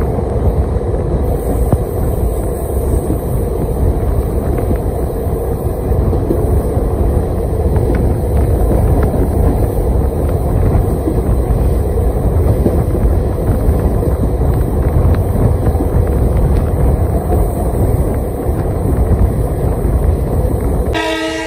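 Passenger train running at speed, heard from outside the coach window: a steady loud rush of wind on the microphone and wheels on the rails. A train horn starts to sound near the end.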